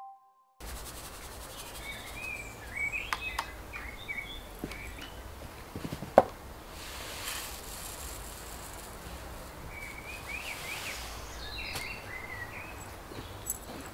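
Garden ambience with small birds chirping on and off, in two spells, and a few light taps, the sharpest about six seconds in.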